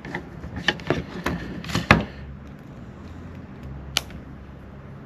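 A few sharp clicks and knocks of small craft items being handled on a work table, bunched in the first two seconds with one more near the end, over a steady low hum.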